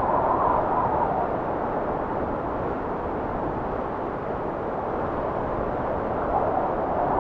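Blizzard wind blowing steadily as a low rushing noise. A higher howl in the gusts fades after about a second and begins to rise again near the end.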